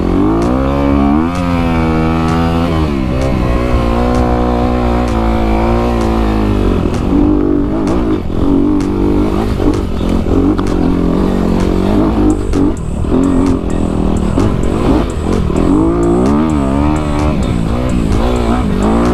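A Honda CRF250 dirt bike's single-cylinder four-stroke engine riding off, revving up and down through the gears. The pitch climbs about a second in, drops back near three seconds, then keeps rising and falling over wind noise.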